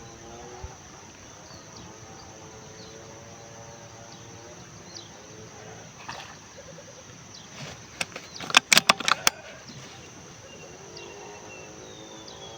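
Outdoor ambience with faint short bird calls. About eight seconds in there is a rapid run of sharp clicks, some eight or so within about a second.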